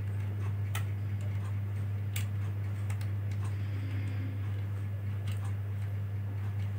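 Sparse small clicks and ticks of a small screwdriver and tiny screws being worked into a laptop drive caddy, a few spread irregularly over several seconds, over a steady low hum.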